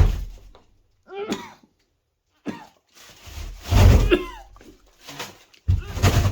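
A person gagging and coughing at a foul smell, in short bursts with a couple of brief strained vocal noises between them.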